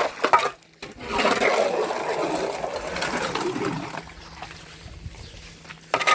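Water splashing and rushing, a noisy pour that starts about a second in and dies down after about three seconds, with a sudden loud splash near the end.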